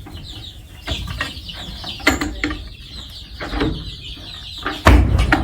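Young chickens clucking and peeping, with scattered knocks and a heavy thump near the end.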